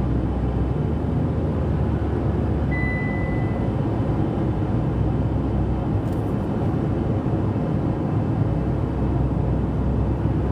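Steady road and engine rumble inside a car's cabin while driving on the highway.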